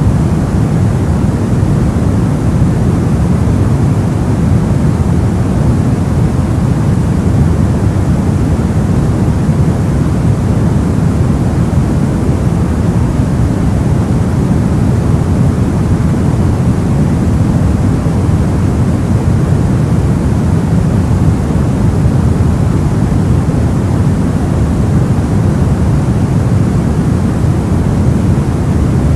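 Soft white noise for sleep: a steady, even rushing noise, deep rather than hissy, that never changes.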